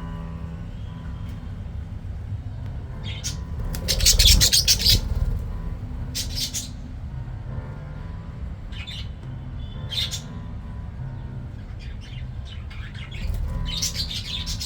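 Budgies chirping and squawking in short bursts, the loudest and longest about four seconds in.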